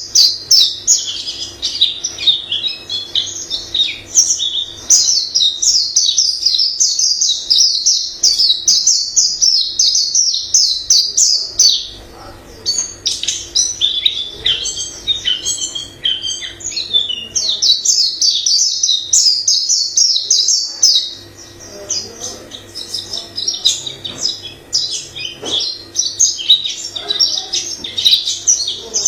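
White-eye singing a long, rapid, high-pitched warbling song made of many varied phrases, with thinner stretches about 12 and 21 seconds in. A faint steady low hum sits underneath.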